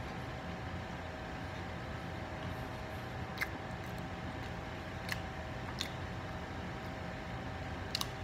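Eating sounds over a steady background hum: four short sharp mouth clicks and smacks while chewing, the last as a fried sausage is bitten near the end.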